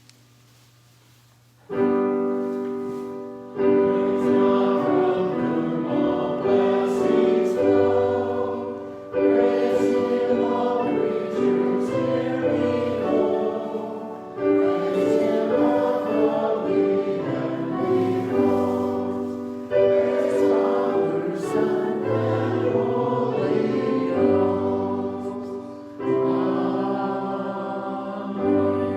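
Choir singing a sacred anthem with piano accompaniment, in sustained chords and phrases that restart every few seconds; the music starts about two seconds in.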